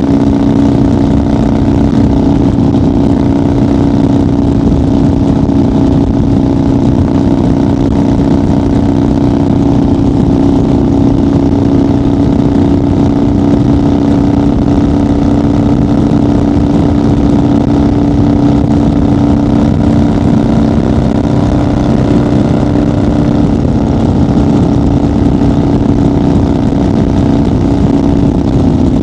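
1990 Harley-Davidson FXR's Evolution V-twin engine running at a steady highway cruise, its exhaust note holding one even pitch.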